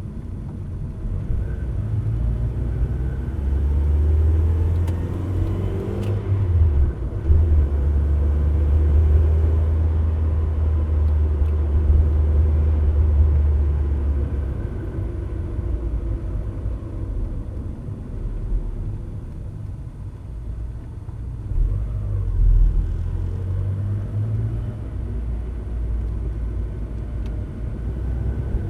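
Mazda MX-5 NA Miata's four-cylinder engine running under way in a low gear, a steady low drone that swells and eases with throttle. Over it is a faint whine that bends up and down with engine speed: the whine the car makes around 2,000 rpm in low gears.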